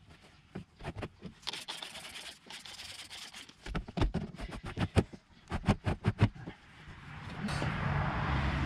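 Trigger spray bottle squirting stain remover onto a cotton T-shirt in quick short bursts, several a second. Near the end, a steady vehicle-like hum with a low drone swells up.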